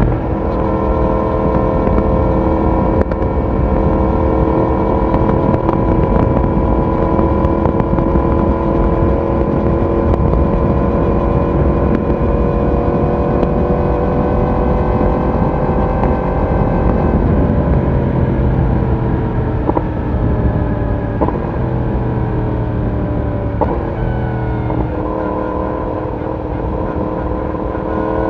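Yamaha YZF-R1 inline-four exhaust while riding: the engine note holds and slowly climbs, then falls in steps for several seconds with a few short clicks as the bike slows, and picks up again near the end. Wind and road noise sit underneath.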